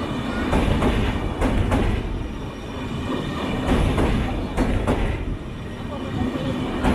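Railway train running on the track: a steady rumble with irregular clacks of the wheels over the rail joints.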